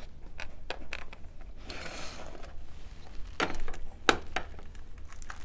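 Small clicks and knocks of a plastic refractometer carrying case and the instrument being handled, with a brief soft rustle about two seconds in and two sharper clicks near the end.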